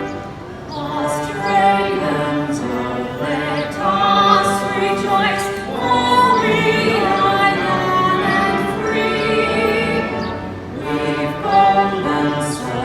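Music with a choir singing held, wavering notes.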